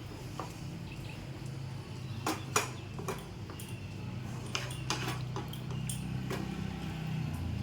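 A cooking spoon knocking and clinking against a kadai as the chicken curry is stirred: about ten sharp clinks, clustered in the middle, the loudest about two and a half seconds in, over a steady low hum.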